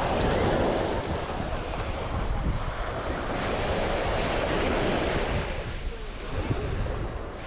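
Sea waves breaking on a beach, the surf swelling and easing, with wind rumbling on the microphone.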